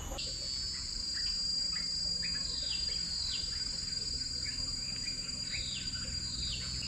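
Forest ambience: insects keep up a steady high-pitched drone while a bird calls over and over in short falling notes.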